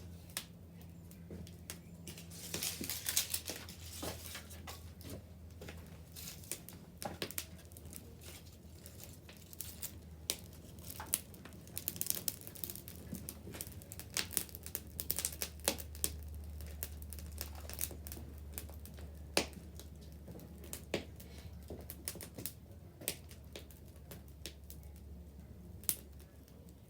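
Wood bonfire crackling, with frequent irregular sharp pops and snaps, busiest in the middle stretch, over a low steady hum.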